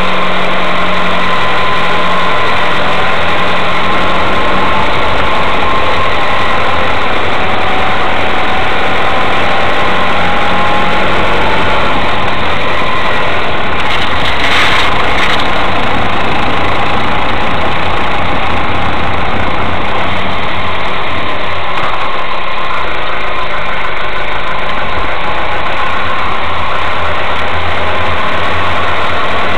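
Mazda 3 engine running steadily at low revs, with faint tones that drift slightly in pitch. A short noisy burst comes about halfway through.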